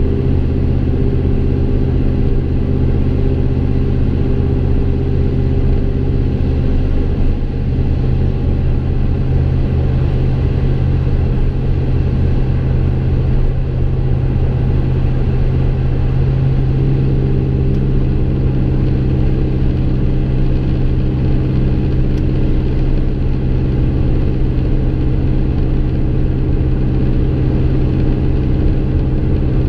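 2015 Chevy Silverado's 5.3-litre EcoTec3 V8 exhaust through Kooks long-tube headers and a Gibson M.W.A muffler with no resonator, heard from inside the cab: a steady, deep engine note at a constant engine speed. For several seconds in the middle the tone turns rougher and less even before settling back.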